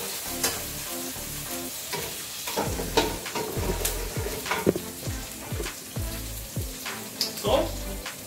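Food sizzling in hot oil in a wok on a gas stove, while a ladle stirs and clinks against an aluminium pot of basmati rice, with scattered sharp knocks.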